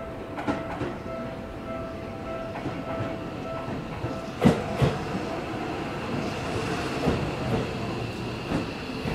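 Seibu 40000 series electric train pulling into a platform and slowing, its wheels giving sharp clacks over rail joints, two loud ones about halfway through and more near the end, over a steady rumble with a high steady whine setting in as it slows.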